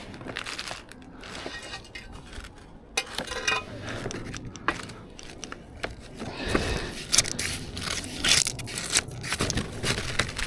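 Irregular crunching and scraping with scattered knocks, as the timber formwork frame is shifted and packed on the gravel base to bring it level.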